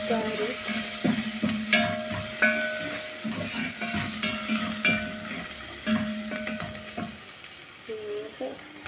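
Onions and garlic sizzling in hot olive oil in a metal pot, while a spoon stirs and scrapes against the pot, its knocks ringing briefly every second or so. The stirring stops about seven seconds in, leaving the frying hiss.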